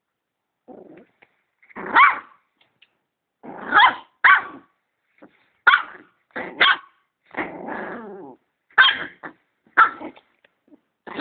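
Dog barking at a vacuum cleaner in sharp single barks, about ten in all and irregularly spaced, with a short stretch of growling midway.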